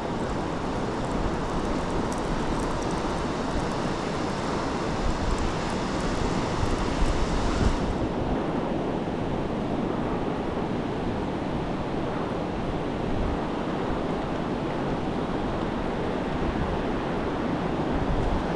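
Gulf surf breaking steadily on the beach, with wind on the microphone. A higher hiss over it stops abruptly about eight seconds in.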